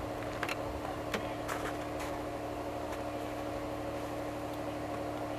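Audi S2 coupé's turbocharged five-cylinder engine idling with a steady hum, with a few light clicks in the first three seconds.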